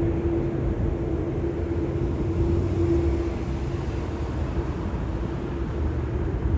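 Steady low rumble with a constant mid-pitched hum, unchanging in level.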